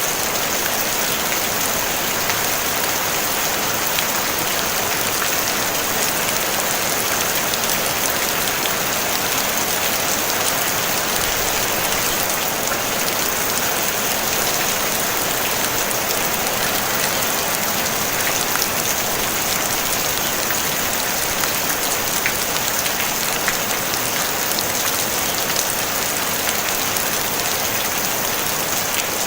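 Steady rain falling on a tin roof, an even hiss with scattered faint drop ticks.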